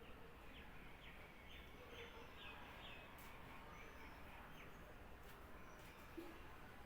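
A small bird chirping: a faint run of about ten short, falling chirps over some four seconds, against steady background hiss.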